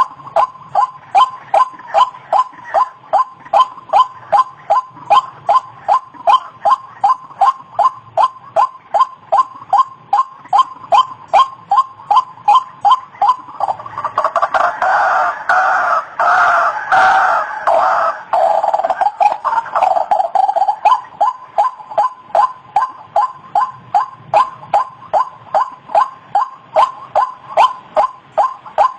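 White-breasted waterhen (ruak-ruak) calling, a short call repeated about twice a second in a steady series. For several seconds around the middle the calls thicken into a denser, overlapping chorus.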